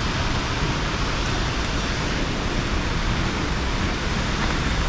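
Loud, steady rush of South Falls, a tall waterfall, heard close up with its spray falling around.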